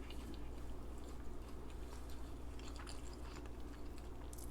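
A person chewing fast food close to the microphone, with scattered small wet mouth clicks and smacks over a steady low hum.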